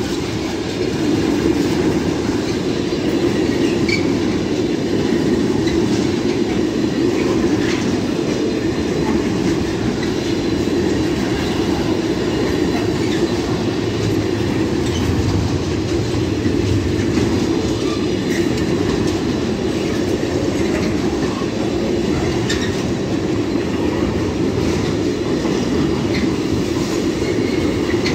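Container-laden flat wagons of an intermodal freight train rolling past at close range: a steady rumble of wheels on rail, with scattered clicks.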